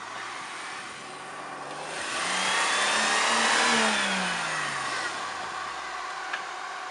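A motor vehicle's engine grows louder and higher about two seconds in, is loudest a little past the middle, then drops in pitch and fades. A short click comes near the end.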